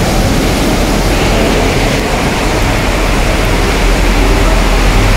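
Heavy rain pouring down as a loud, steady rush of noise.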